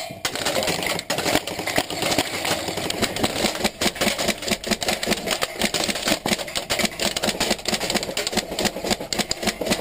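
Heavy airsoft fire: a dense, continuous rattle of BBs striking the tower walls, mixed with many airsoft guns firing at once.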